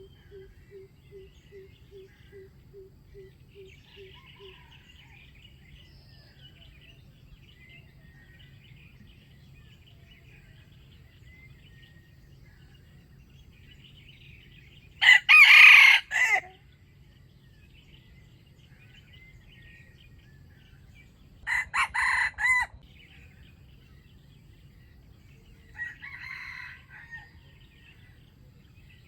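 Wild red junglefowl rooster crowing three times, the first crow loudest and the third faint. Through the first few seconds a low note repeats about three times a second, with faint small-bird chirping behind.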